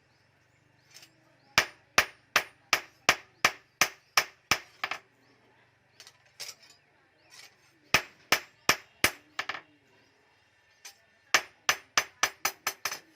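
Blacksmith's hammer striking bearing steel on an anvil in three runs of sharp blows, about three a second, the last run getting quicker.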